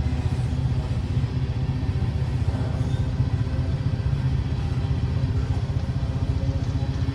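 Steady low rumble of a moving vehicle, with a fast flutter underneath.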